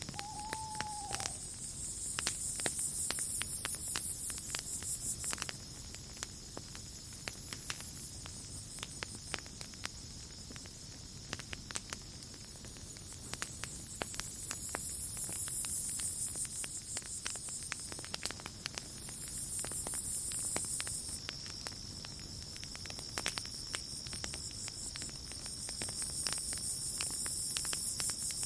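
Campfire crackling with frequent sharp pops, over a night insect chorus. A steady high cricket trill runs throughout, and louder, higher insect buzzing comes and goes in spells of a few seconds.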